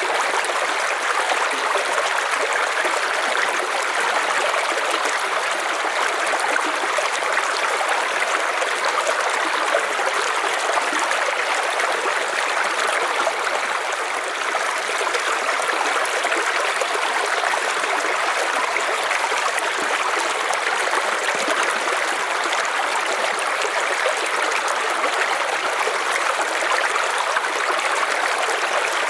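River water running over stones, a steady rushing and trickling.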